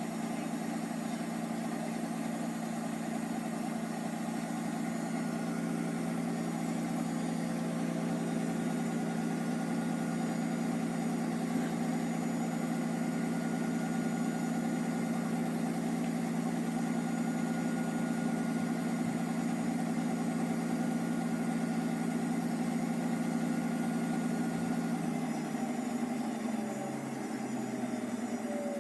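Hotpoint HE8L493 washing machine's drum motor running at a steady speed with a constant hum, then slowing with falling pitch near the end.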